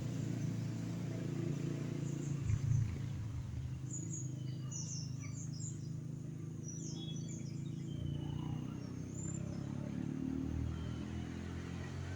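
Small birds chirping, with clusters of short, high, falling notes in the middle of the stretch, over a steady low rumble.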